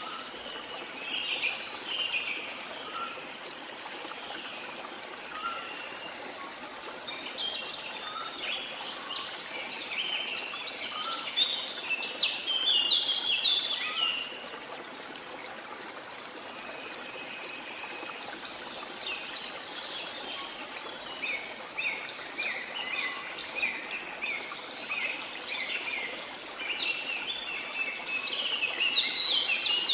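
Several birds chirping and singing over the steady rush of a waterfall. The birdsong comes in dense spells, loudest from about eight to fourteen seconds in and again over the last ten seconds, with a quieter stretch between.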